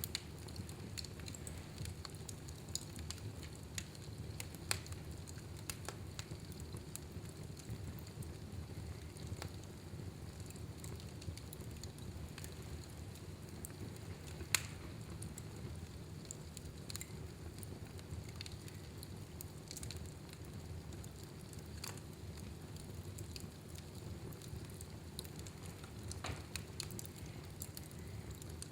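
Wood fire burning in a fireplace: a steady low rumble of the flames with scattered sharp crackles and pops, one louder pop about halfway through.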